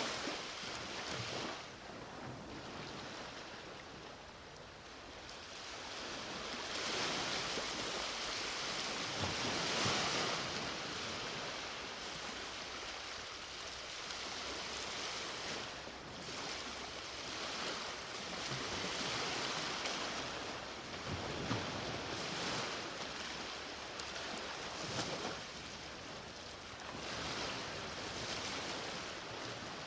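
Ocean waves breaking and washing up the beach in a steady surf hiss, swelling and falling back every few seconds.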